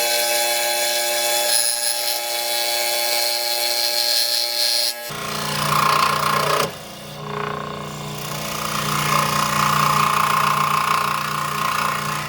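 Electric scroll saw running, its blade cutting through wood with a steady buzzing rasp over the motor's hum. The sound dips briefly about seven seconds in.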